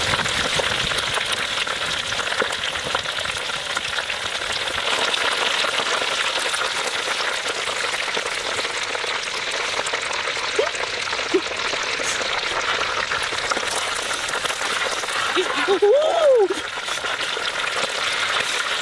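Food frying, a steady crackling sizzle throughout. A short rising-and-falling squeak breaks in near the end.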